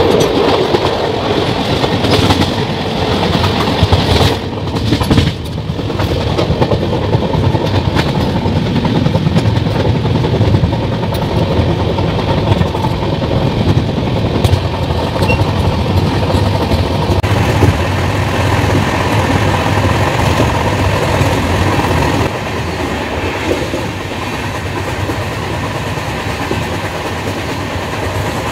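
Sarnath Express passenger train running along the track: a steady, loud rush of rail noise with wheels clattering over the rail joints. The noise eases slightly about two-thirds of the way through.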